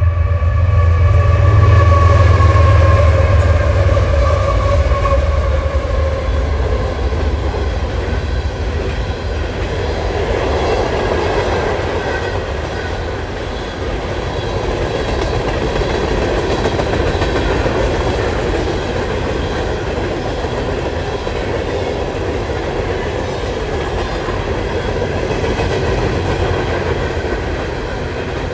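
CSX freight train passing. For the first few seconds a locomotive's diesel engine drones low and loud, its pitch falling slightly as it goes by. Then the cars roll past with a steady rumble and clatter of steel wheels on the rails.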